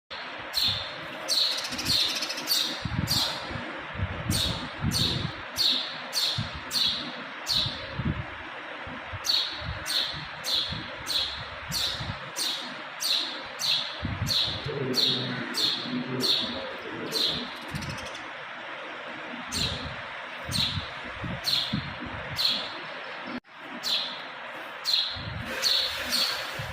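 Birds chirping: short sharp calls repeating about twice a second over a steady background of more bird chatter, with a brief dropout about three-quarters of the way through.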